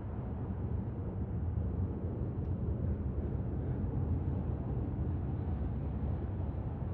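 Low, steady rumble of a jet airliner, swelling slightly midway.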